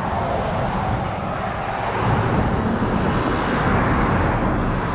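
Steady noise of passing motor vehicles, swelling a little about two seconds in.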